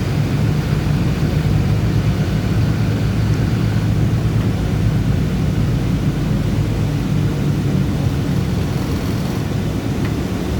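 Bus engine running steadily under way, a constant low droning rumble with a faint high whine above it.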